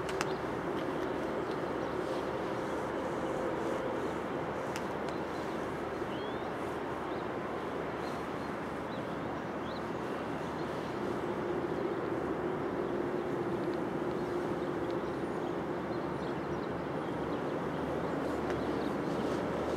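Steady rumble of rail traffic on the line, growing slightly louder in the second half with a low engine hum as a yellow diesel track-maintenance vehicle approaches. A few faint bird chirps sound about six seconds in.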